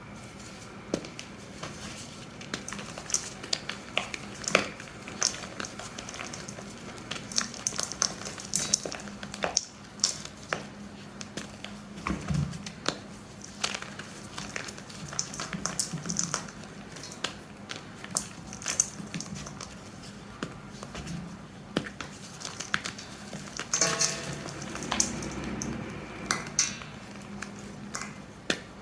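Flaky reformed gym chalk blocks being crushed, crunching and crumbling in irregular sharp crackles, with a denser run of crumbling about three-quarters of the way through.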